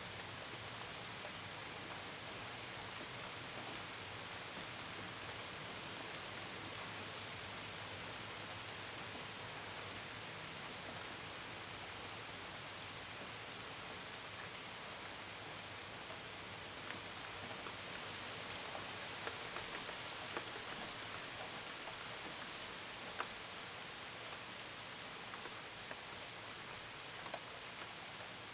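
Steady gentle rain, with individual drops ticking on hard surfaces, more often in the second half. A cricket chirps about once a second behind it.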